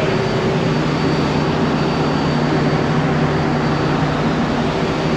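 Ship's engine-room machinery running: a loud, steady drone with a few constant hum tones and a faint high whine, unchanging throughout.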